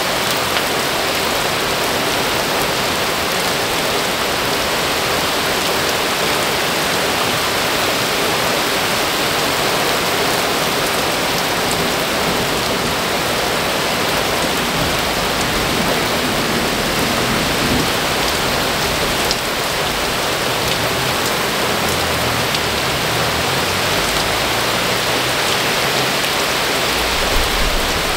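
Heavy rain pouring steadily in a severe thunderstorm downpour, a dense, even hiss. A low rumble comes in near the end.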